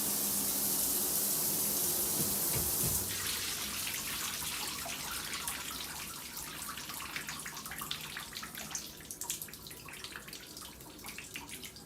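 Shower head spraying steadily. It is shut off suddenly about three seconds in, then water drips and patters, thinning out as it drains.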